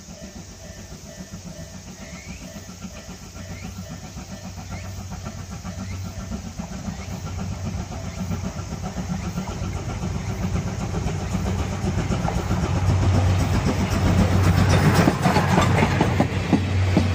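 Steam-hauled passenger train approaching and passing, getting steadily louder, with wheels clicking over the rail joints as the locomotive and brake van go by near the end.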